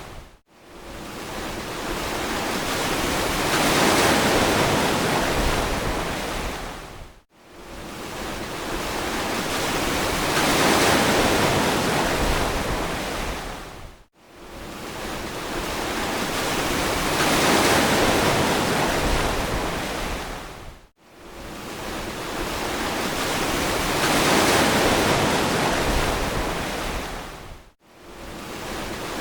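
Ocean waves washing ashore as an even rushing noise that swells and fades in a regular cycle about every seven seconds, with a brief silent gap between each swell.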